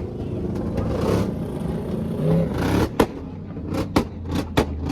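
Car engines idling with a steady low drone, with a quick series of sharp pops starting about three seconds in.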